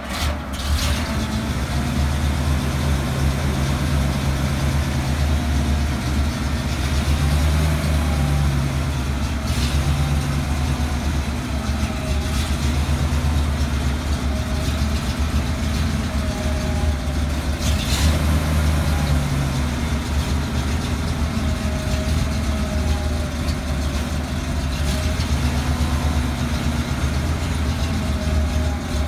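Ural-375D military truck's 7-litre V8 petrol engine idling steadily, its speed lifting slightly twice, with a few brief clicks over the running.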